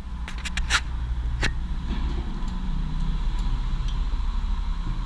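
Hand tools being handled: a quick run of four sharp metallic clicks about half a second in, then a single clink, as a socket and wrench are readied to turn the engine over. A steady low rumble lies underneath.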